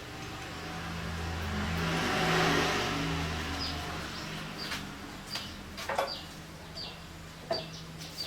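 An engine running, its pitch stepping up and down as it swells louder about two and a half seconds in and then eases off, with light clicks and chirps in the second half.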